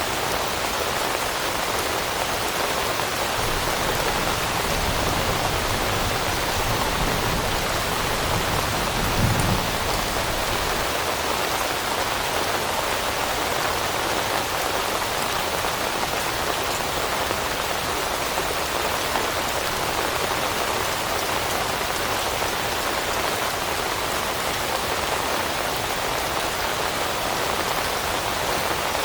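Steady rain pattering on leaves, an even dense hiss of many drops, with a short low rumble about nine seconds in.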